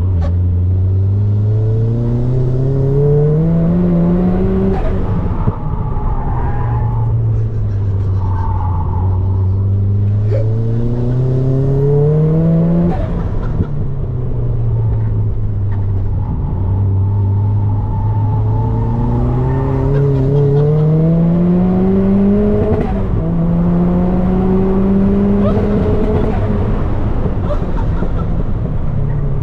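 Turbocharged Mazda MX-5's four-cylinder engine pulling hard on a track run. Its pitch climbs steeply several times, each climb ending in a drop as the driver shifts or lifts, then builds again.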